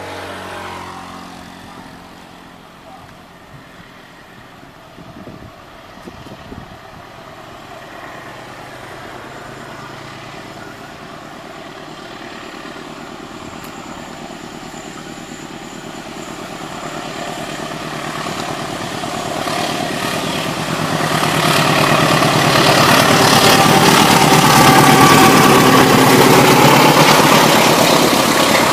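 Diesel-hauled passenger train approaching and passing, the locomotive's engine and the wheels on the rails growing steadily louder from about halfway through and loudest near the end.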